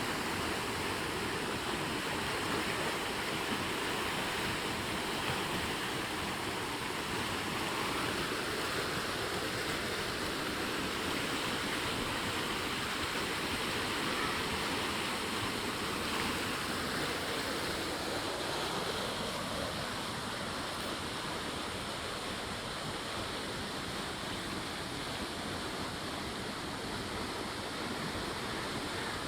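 Flowing stream water rushing steadily, a continuous even noise with no breaks.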